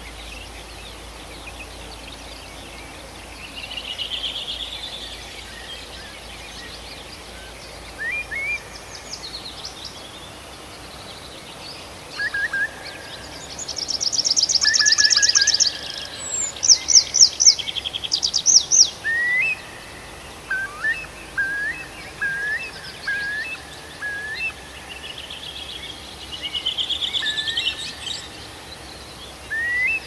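Songbirds singing over a faint steady background hiss. The loudest stretch, from about halfway through, is a fast high trill followed by sharp high notes, then a run of short rising whistles repeated about once a second, with softer warbling phrases near the start and near the end.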